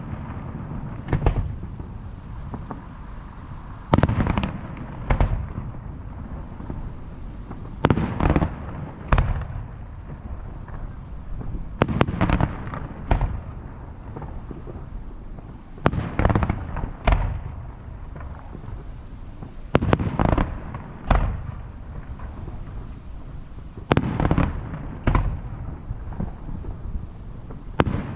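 Fireworks shells bursting, a bang about every four seconds, each followed by a second bang about a second later, over a low rumble.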